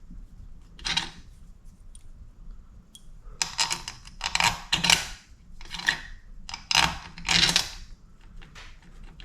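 Metal bolts and hand tools clinking and scraping in a series of short bursts, as bolts are fitted by hand into a motorcycle engine's water pump cover.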